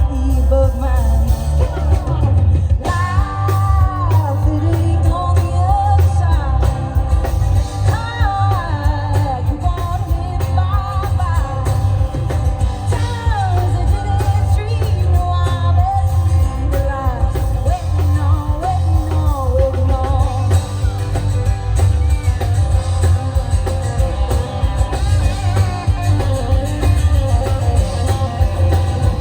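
A woman singing a country song live over loud amplified backing with guitar, bass and drums.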